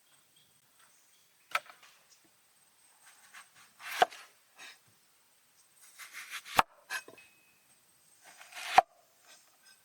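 Food being cut with a knife on a wooden cutting board: four slow cuts, each a short slicing rasp that ends in a sharp knock of the blade on the board.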